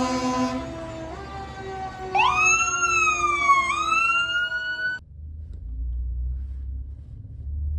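Pierce Velocity fire truck sounding a brief horn blast, then a siren that sweeps sharply up, slides slowly down and climbs again. It cuts off suddenly, leaving only a low rumble for the last few seconds.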